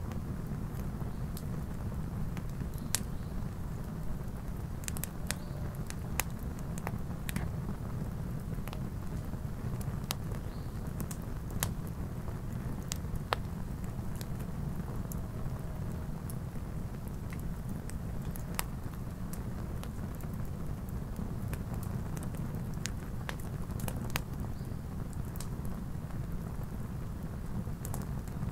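Wood campfire burning, with irregular sharp crackles and snaps over a steady low rumble.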